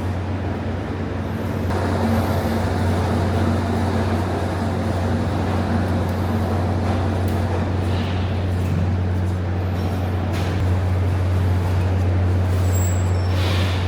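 Steady low hum of running factory machinery with an even rushing noise over it and a few faint knocks or clatters.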